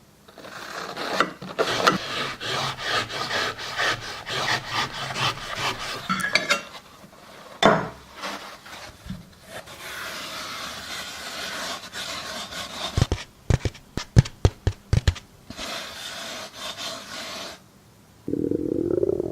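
Dry floral foam crunching and crumbling, with scraping and rasping stretches and a quick run of sharp clicks in the middle.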